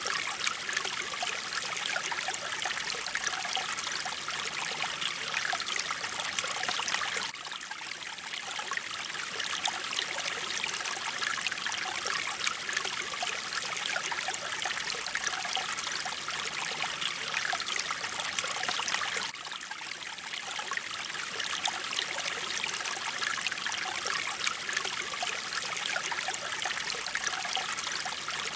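Mountain stream flowing, a steady rush and babble of running water that dips slightly in loudness twice.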